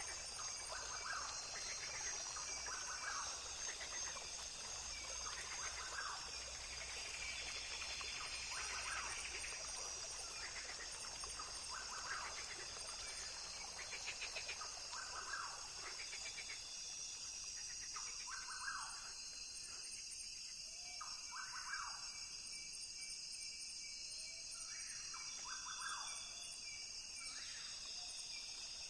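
Rainforest ambience: a steady, high-pitched insect chorus, with short animal calls repeating about every one to two seconds and a brief fast trill about halfway through.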